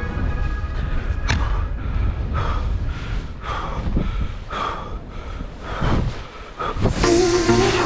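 A person breathing hard in quick gasps, about one or two breaths a second, over a steady low rumble of wind on the microphone; music comes in near the end.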